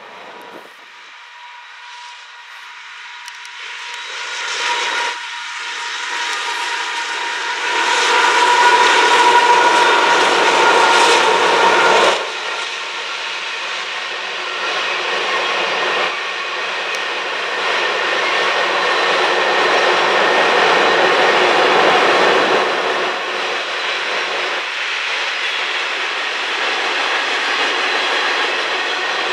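A Union Pacific freight train crossing a bridge. The sound of the approaching locomotives builds for several seconds and drops suddenly about twelve seconds in, giving way to the steady rolling clatter of covered grain hopper cars' wheels on the rails.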